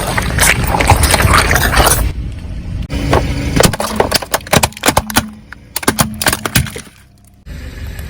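Objects crunching and cracking as a car's tyre rolls over and crushes them: a dense crackle for about two seconds, then a run of sharp, separate snaps, cutting off suddenly near the end.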